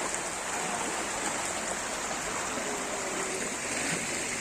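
Steady rush of floodwater after heavy rain: an even, unbroken water noise.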